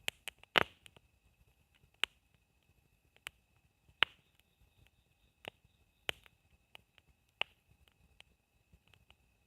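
Burning firewood crackling in a campfire: sharp, irregular snaps and pops, about a dozen, the loudest near the start and about four seconds in.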